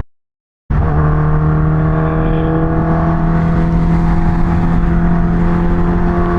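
Kawasaki Ninja H2's supercharged inline-four engine running at steady revs. The sound drops out for under a second at the start, where the recording cuts, then resumes as a constant note over a rushing noise.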